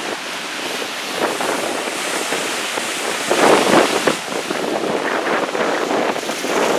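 Strong wind buffeting the microphone over the rush of big storm waves on Lake Michigan, with a louder surge a little past the middle.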